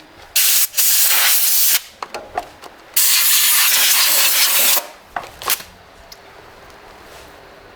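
Pressurised gas hissing out in several bursts: a short one, a longer one of about a second, and a longest of nearly two seconds about three seconds in, then a couple of brief spurts.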